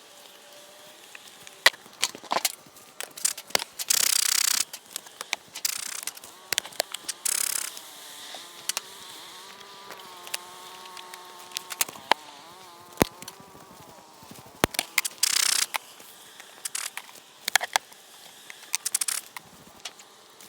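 Honey bees buzzing around an opened hive, one buzzing close for a couple of seconds past the middle, amid frequent clicks and knocks and short hissing scrapes of hive equipment being worked.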